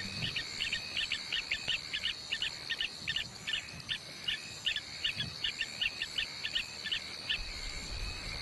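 Bush ambience: a bird giving a rapid run of short, high chirps, about five a second, over a steady high-pitched insect drone. The chirps stop about seven seconds in, and the drone carries on.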